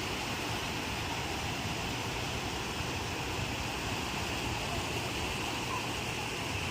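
Ocean surf: a steady, unbroken wash of breaking waves.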